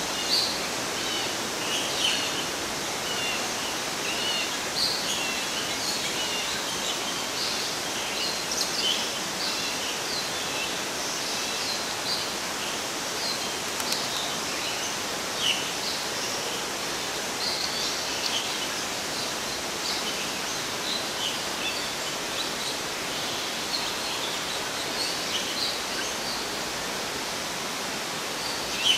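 Small birds chirping in short, high calls, scattered and frequent, over a steady outdoor hiss.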